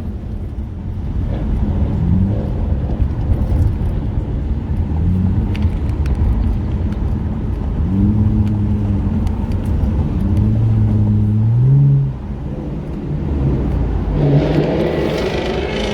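Car engine pulling through the gears while driving, its pitch climbing and falling back several times, then a much louder rev about 14 seconds in.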